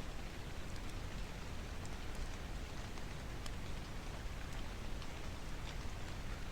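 Steady rain noise with a few faint, sharp crackles of a wood fire scattered through it.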